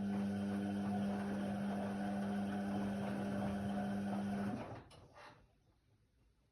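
Indesit WIDL 106 washer-dryer running with a steady mechanical hum for about four and a half seconds, then cutting off.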